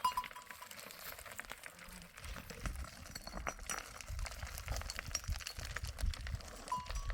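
Goats and sheep moving about, with a small livestock bell clinking at the start and again near the end among scattered knocks and rustling; a low rumble sets in about two seconds in.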